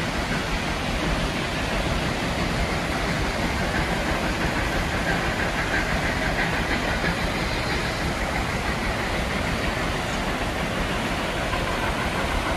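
A narrow-gauge train's open passenger cars rolling past, blended with the steady rush of a mountain creek.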